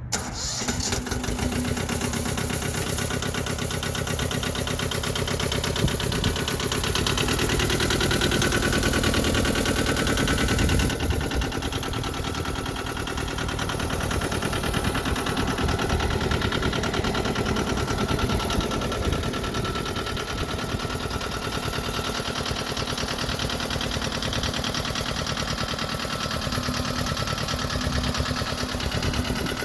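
Yanmar YM135 compact tractor's small diesel engine running steadily, revved up somewhat for a few seconds about seven seconds in, then settling back to a steady run.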